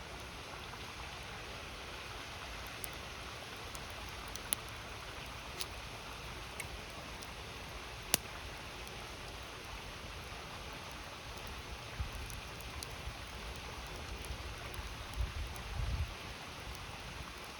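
A campfire crackling over the steady rush of a flowing river: scattered sharp pops of burning wood, the sharpest about 8 seconds in. Low rumbling comes and goes in the last few seconds.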